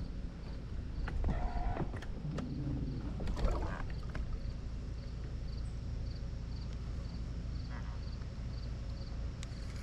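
Steady low rumble of wind and water on an open river, with a faint high ticking repeating about two to three times a second and a few light clicks and knocks in the first few seconds.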